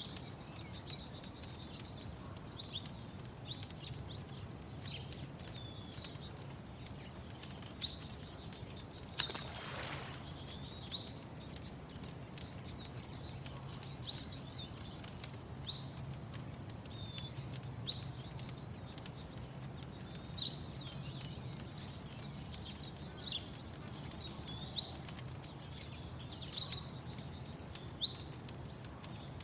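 Small birds chirping, short high calls every second or two, over a steady low rumble and scattered faint crackling clicks. A brief rushing sound comes about nine seconds in.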